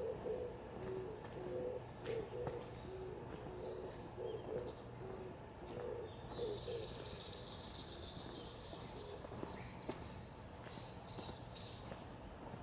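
A dove cooing in repeated low phrases through the first half. From about halfway in, a small songbird sings a high, rapid chattering song, with a few more high notes near the end.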